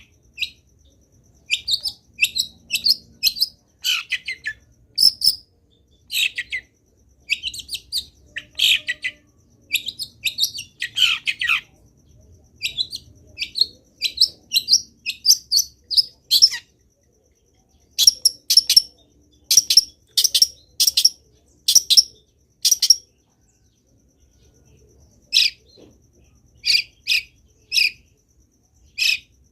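Long-tailed shrike (cendet) in full song: short, rapid bursts of varied chirps and whistled notes packed with imitated phrases, each burst under a second with brief pauses between, and a longer pause about two-thirds of the way through.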